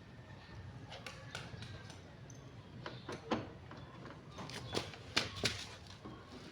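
Irregular clicks and light knocks, with a few sharper ones from about three seconds in.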